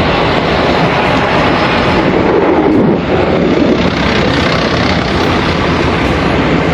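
A vehicle running steadily: a constant, loud rushing noise with a low engine hum underneath.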